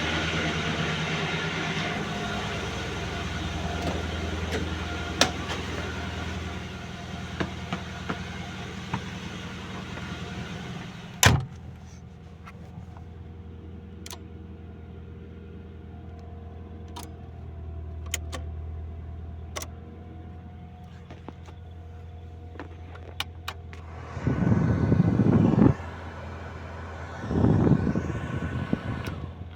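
Mitsubishi Galant's G52B 2.0-litre four-cylinder engine idling steadily during a cold start. About eleven seconds in there is one sharp loud knock, and afterwards the engine sounds quieter. Near the end come two short, louder bursts of noise.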